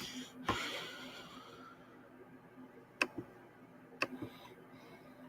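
Several sharp clicks over a faint steady hum: one about half a second in, then two close pairs about three and four seconds in.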